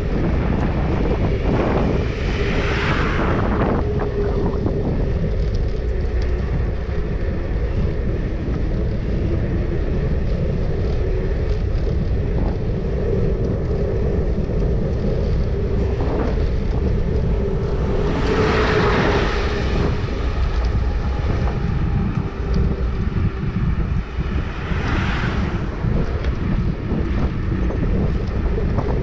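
Wind buffeting the microphone of a moving bicycle, with road traffic around it; three louder swells, near the start, about two-thirds through and near the end, sound like vehicles passing.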